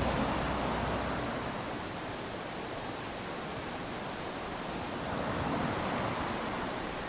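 Small waves lapping onto a sandy beach: a steady surf wash that swells at the start and again about five seconds in.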